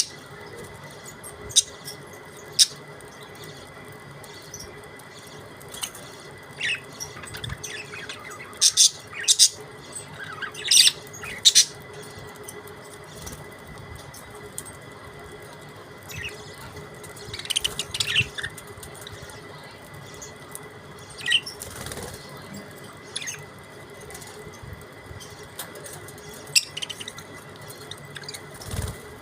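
Budgerigars giving scattered short, high chirps, with occasional sharp clicks or flutters, over a faint steady hum.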